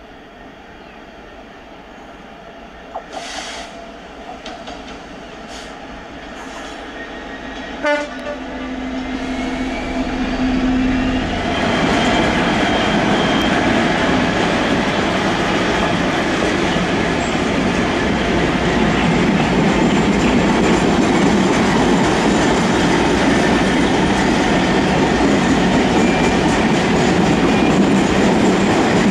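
GB Railfreight Class 66 two-stroke diesel locomotive approaching with a long freight train, growing steadily louder. About a third of the way in it sounds a single steady horn note for a couple of seconds. Then the locomotive and its wagons run loudly past close by.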